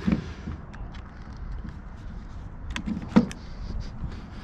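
Scattered small clicks and taps of hand tools and screws being handled at the microwave, with one sharper knock a little after three seconds in, over a steady low rumble.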